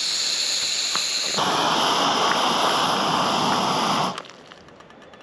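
Camping gas stove: gas hissing from the opened valve, then about a second and a half in the burner lights and runs with a louder, fuller rushing hiss, which stops abruptly about four seconds in.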